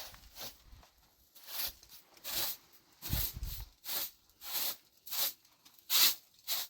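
A series of short, irregular rustling noises, roughly one every half second to a second, with a dull thump about three seconds in.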